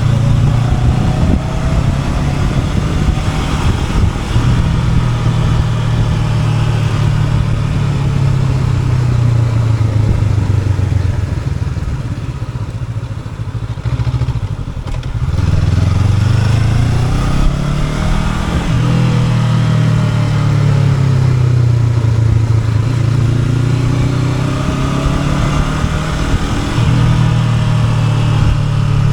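Honda NX500's parallel-twin engine under way, its note rising and falling with the throttle. It eases off around the middle, then pulls up through the revs again about fifteen seconds in.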